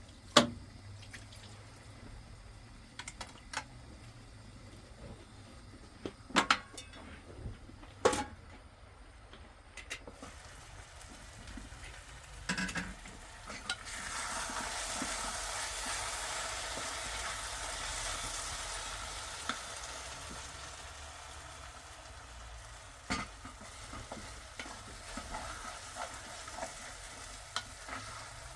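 A few sharp clinks and knocks of utensils on a pan, then, about halfway through, food starts sizzling in hot oil. The sizzle swells and slowly dies down, with a few more knocks.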